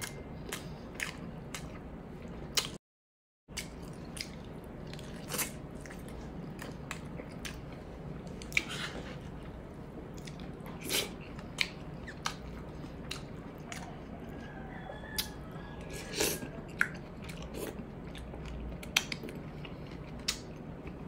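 Close-miked chewing and lip-smacking while eating pork hock, with scattered short wet smacks and clicks.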